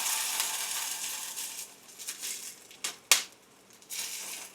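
Steady hiss of rain fading away over the first second or two. Then a few sharp clicks and knocks of kitchen things being handled, the loudest about three seconds in.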